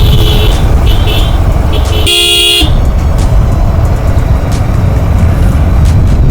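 Steady low rumble of wind and engine while riding on the road. A vehicle horn gives a couple of short beeps near the start, then a louder honk about two seconds in that lasts about half a second.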